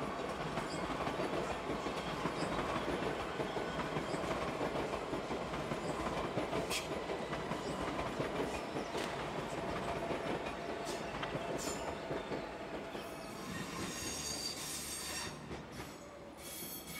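SBB ICN (RABDe 500) tilting electric train running past, a steady rumble of wheels on rail broken by a few sharp clicks over rail joints and points. High wheel squeal comes in about four-fifths of the way through as the rumble fades.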